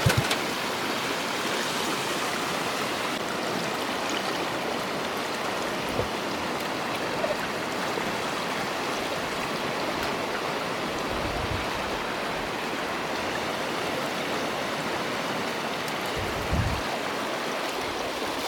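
Steady rushing of water, an even noise without pauses, with a few dull low thumps at intervals.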